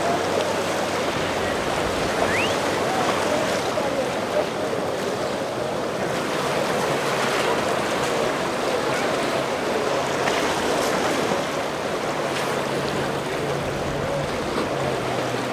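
Waves breaking and water rushing as a steady noise, with a low engine hum of a boat motor coming in about two-thirds of the way through.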